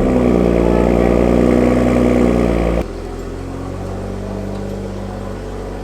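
BMW M340i's turbocharged inline-six idling steadily. The sound drops suddenly to a quieter level about three seconds in, as at a cut between two clips.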